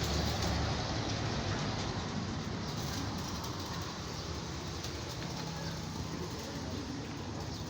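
Steady mechanical rumble with a low engine-like hum, slowly getting quieter.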